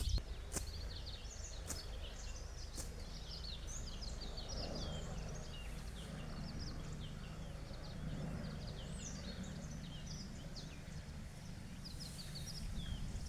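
Many birds chirping and twittering over a low, steady background rumble, with a few sharp clicks in the first three seconds.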